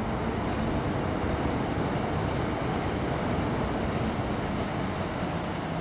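River cargo ship's engine running steadily as the vessel moves into the harbour: a low hum under an even wash of noise.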